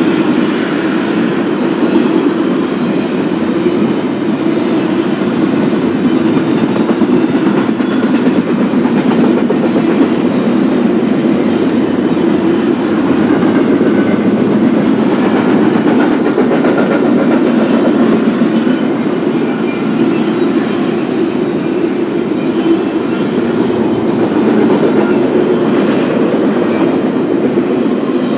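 BNSF intermodal freight train rolling past: a steady rumble of wheels on rail with a running clickety-clack.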